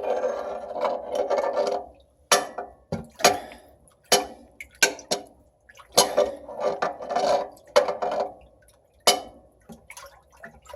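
A wrench stirring water and soluble cutting oil in a lathe's metal coolant sump: liquid sloshing and splashing, with irregular clanks of the wrench against the tank that ring briefly.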